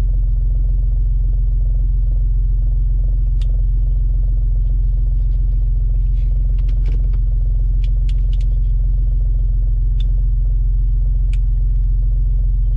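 Off-road 4x4's engine idling while the vehicle stands still, a steady low rumble heard from inside the cab. A few faint sharp clicks come in the middle.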